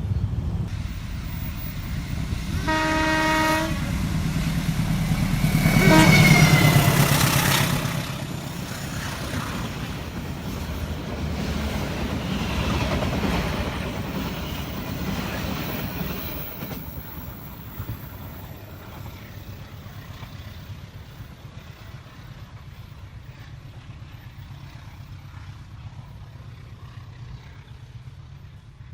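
A train sounds a short horn blast about three seconds in, then passes close at speed, loudest around six seconds in, with the pitch dropping as it goes by. Wheels clatter over the rails, then fade away after about sixteen seconds.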